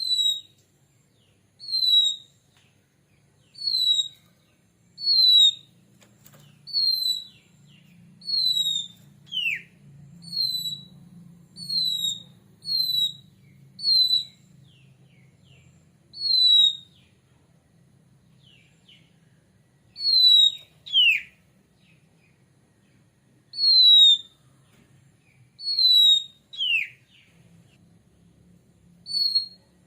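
Oriental magpie-robin (kacer) giving its whistled 'plong' calls: short, clear, downslurred notes repeated about every one and a half to two seconds. A few longer notes slide steeply down in pitch, and there are brief gaps in the series.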